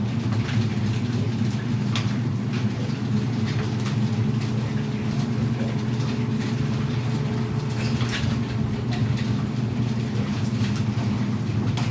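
A steady low machine hum that holds level throughout, with faint scattered clicks and knocks over it.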